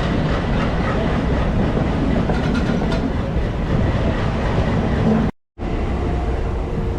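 Hyderabad MMTS electric local train running along the line, a steady rumble of wheels on rails. The sound cuts out completely for a moment about five seconds in.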